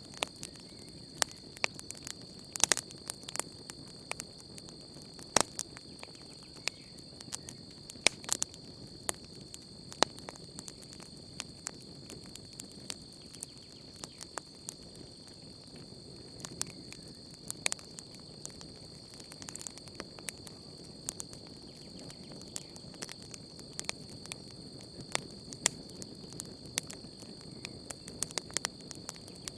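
Wood campfire crackling, with irregular sharp snaps and occasional louder pops over a soft low rush of flame. Behind it runs a steady high insect trill.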